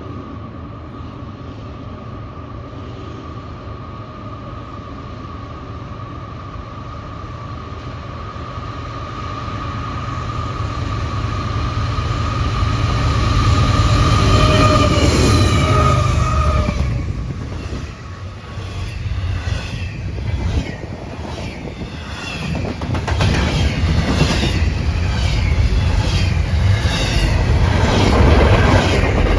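CN intermodal freight train approaching and passing at speed. A steady high tone and a low rumble build to their loudest about halfway as the locomotives go by. The tone then stops, leaving the rumble and a fast, even clicking of the cars' wheels over the rail joints.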